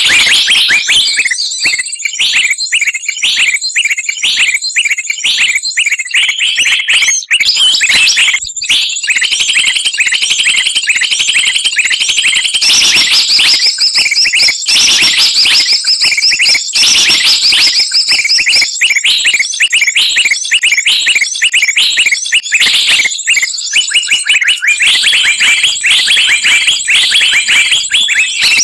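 A bird-trapping lure recording: a dense, noisy chorus of many songbirds chirping, trilling and chattering over each other without a break.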